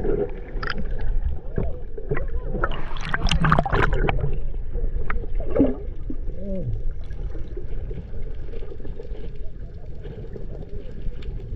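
Water splashing and sloshing under a steady low rumble, with a burst of splashes a few seconds in and faint, muffled voices.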